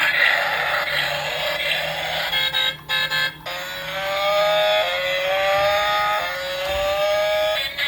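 Vehicle engine sound effect: a rough motor noise, a brief cut-out about three seconds in, then a pitched revving tone that climbs and drops back several times, like an engine shifting up through gears.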